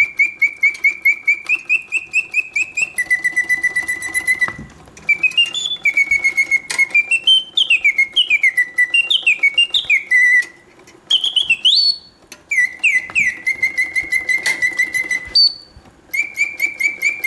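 Karl Griesbaum mechanical singing bird cage playing its song from the bellows-and-piston whistle: fast trilled chirps held on a note, alternating with warbling runs that slide up and down, broken by a few brief pauses. It sings with full voice on all its proper oscillating notes, the sign of a fully serviced mechanism.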